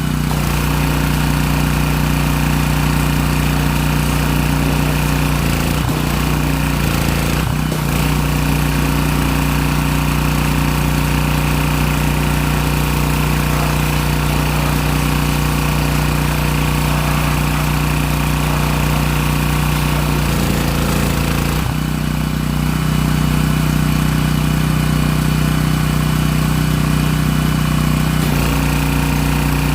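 Small gasoline lawnmower engine running steadily at a constant speed. A little past twenty seconds in, its note wavers briefly, then it runs on slightly louder.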